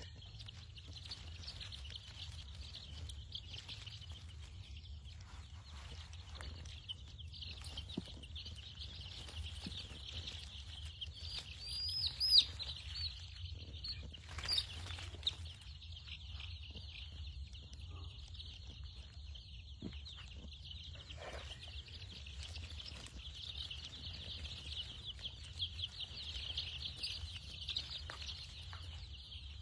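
A brood of young chicks peeping continuously, many overlapping high chirps at once, over a steady low hum.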